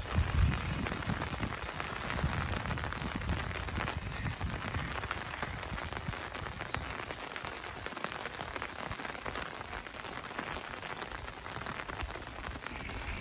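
Steady rain falling on hard surfaces: a dense hiss of drops with many small ticks, and a brief low rumble at the start.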